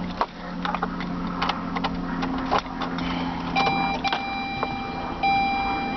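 A 2006 Saturn Ion's ignition switched on without starting the engine: a few clicks, then the dashboard warning chime sounding as a steady electronic tone that repeats in segments with short gaps, over a low hum.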